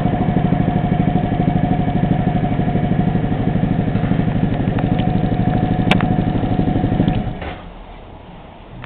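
Honda Forza Z 250cc scooter's single-cylinder engine idling steadily through an aftermarket stainless-steel muffler, then switched off about seven seconds in. A sharp click sounds just before it stops.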